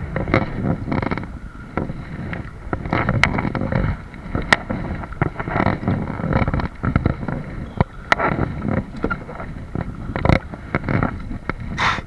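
Kayak on open water: irregular sloshing and splashing with wind buffeting the microphone, broken by a few sharp knocks.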